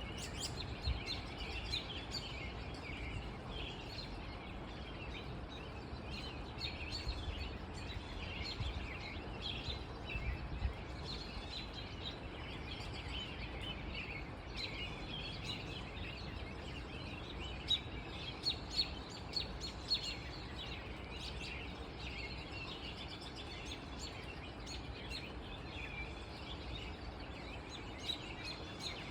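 Many small birds chirping and singing outdoors after rain, a steady overlapping chorus over a low background rumble, with a few louder calls about two-thirds of the way through.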